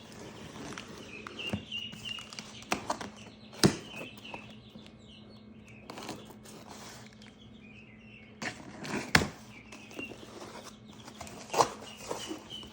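Baby chicks and ducklings peeping in short repeated chirps, broken by several sharp knocks and rustles of handling, the loudest two about four and nine seconds in.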